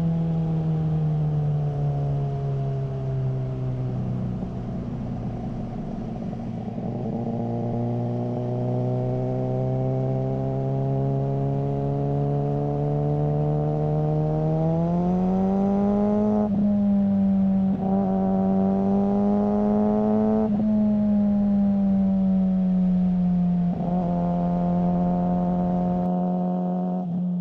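Suzuki GSR600 inline-four engine running through a GPR Ghost aftermarket exhaust at fairly steady revs. The note sinks slowly over the first half, rises about halfway through, then holds with four brief dips and recoveries.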